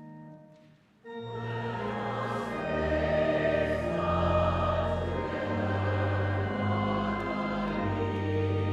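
Soft held instrumental chords die away, and about a second in a choir comes in singing a hymn-style response over steady low sustained accompaniment.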